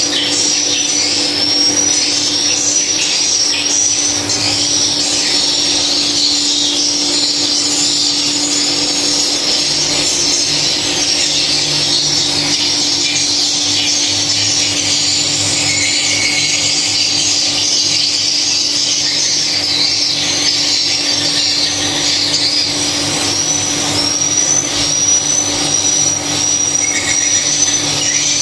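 Dense, continuous high-pitched chirping of many edible-nest swiftlets, with a steady low hum underneath.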